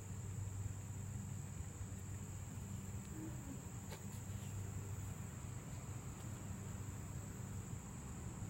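Crickets chirping in a continuous high-pitched trill, over a low steady hum.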